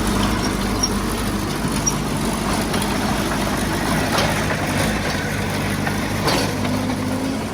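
Heavy-equipment diesel engine running steadily, with two sharp knocks about four and six seconds in.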